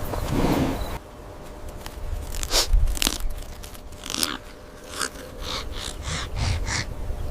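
An animal crunching food as it chews: separate crisp crunches, then a steady run of about three crunches a second in the second half.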